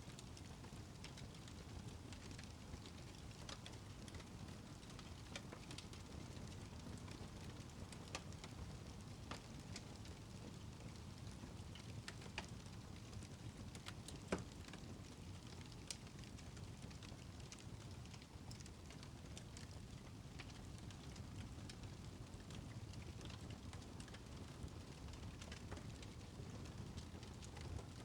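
Faint steady rain with a crackling fireplace: a low, even rushing hiss with scattered small pops and crackles, one sharper pop about halfway through.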